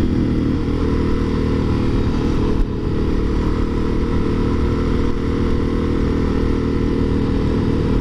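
Motorcycle engine running under way at a fairly steady speed, with a brief dip about two and a half seconds in.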